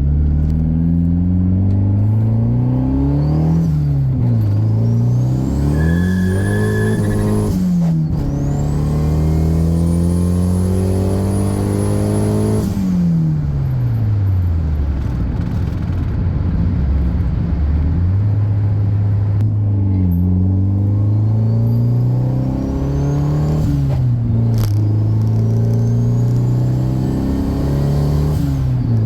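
Honda Civic with an H-series four-cylinder swap accelerating hard, its engine pitch climbing and then dropping at each gear change several times, with one longer fall as it slows about halfway through.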